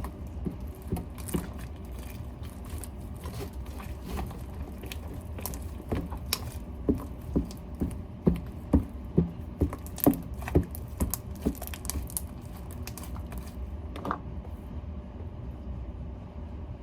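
Glue slime being mixed and worked with activator, giving a run of short wet clicks and squelches, closest together and loudest about halfway through, over a low steady hum.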